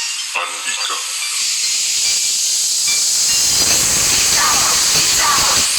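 A loud, steady hiss that comes in about a second in, with a low rumble building up beneath it in the second half, then cuts off near the end.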